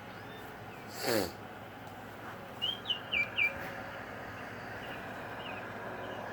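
Short, clear whistled notes from a Baltimore oriole, four in quick succession, each sliding down in pitch, with a couple of fainter ones later. About a second in, a louder call falls steeply in pitch.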